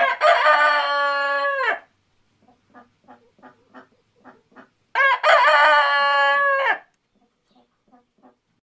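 A rooster crowing twice, each crow a long call of nearly two seconds, the second about five seconds in. Quieter short clucks come between the crows and again near the end.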